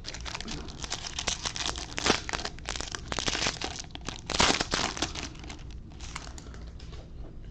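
Foil wrapper of a Bowman baseball card pack being torn open and crinkled, a dense crackling that is loudest about two seconds in and again around four and a half seconds, then dies down.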